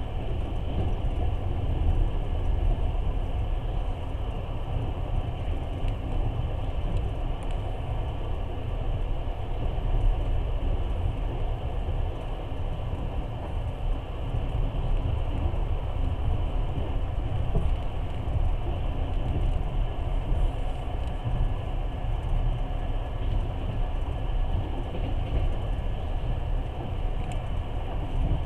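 Passenger train running at speed, heard from inside the carriage as a steady low rumble.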